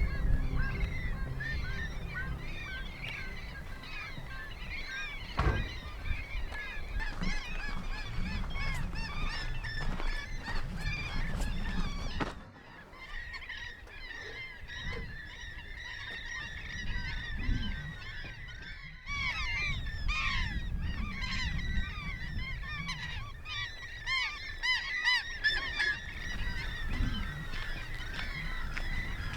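A flock of waterbirds calling together in a dense, continuous chatter of short, overlapping calls. A low rumble underneath drops away about twelve seconds in.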